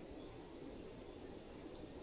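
Quiet campsite ambience: a faint, steady background hiss with one faint tick near the end.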